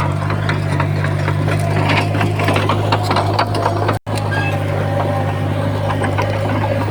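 Heavy earthmoving machine's diesel engine running steadily under a dense clatter of small mechanical clicks and rattles. The sound cuts out for a split second about four seconds in, then resumes the same.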